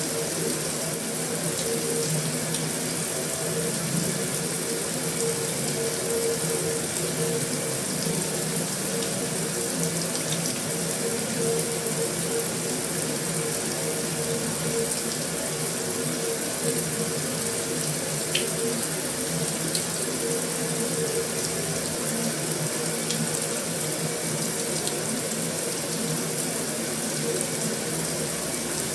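Heavy rain falling steadily on a metal roof: an even, unbroken hiss of water with occasional faint sharp drop ticks.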